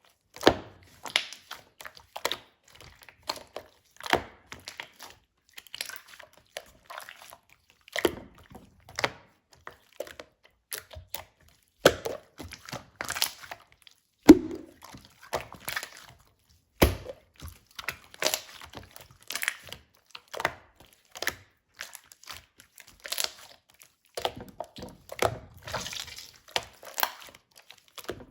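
Slime being pressed, stretched and poked by hand, giving irregular sticky clicks, crackles and pops, a few of them louder than the rest.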